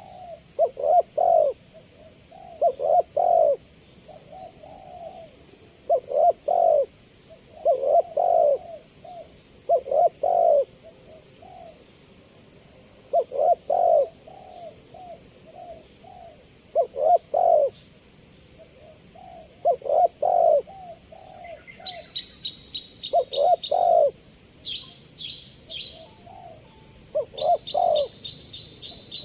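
Spotted dove (tekukur) cooing: the same soft, low cooing phrase repeats every two to three seconds. From about two-thirds of the way in, a small bird adds quick runs of high chirps.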